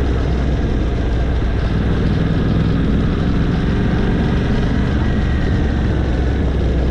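Yamaha Ténéré 700's parallel-twin engine running steadily while the motorcycle is under way, with road and wind noise.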